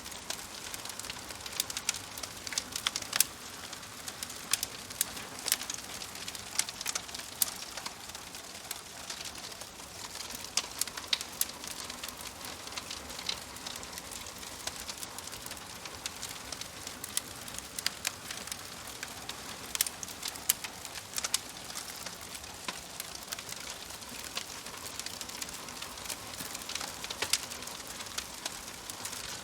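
Wood fire crackling in a fireplace: a steady soft hiss with frequent, irregular sharp pops and snaps.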